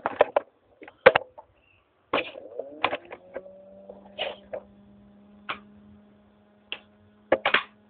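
Irregular clicks and knocks of the phone and RC monster truck being handled, with a faint steady electrical hum that starts about three seconds in.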